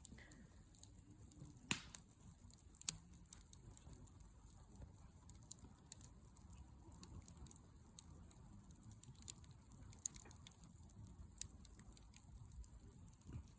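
Wood campfire crackling: irregular sharp pops and snaps, a few louder ones standing out, over a faint low steady noise.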